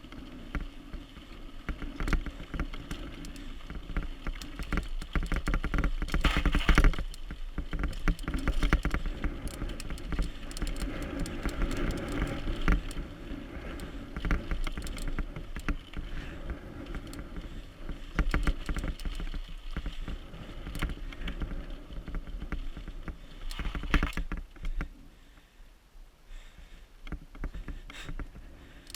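Mountain bike being ridden down a dirt trail: constant tyre noise with many quick rattles and knocks from the bike, over a low rumble of wind on the microphone. It quietens a little near the end.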